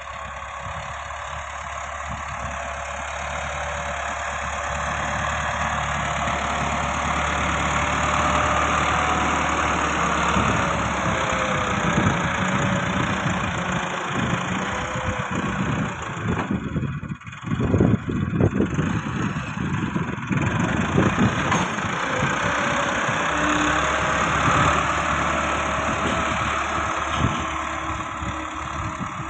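Massey Ferguson 385 tractor's diesel engine running, growing louder over the first several seconds. It dips sharply for a moment a little past halfway, then runs less evenly.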